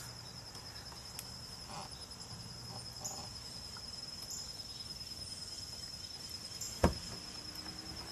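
Insects trilling outdoors: a steady, high, finely pulsing trill that runs on without a break. A single sharp click stands out about seven seconds in.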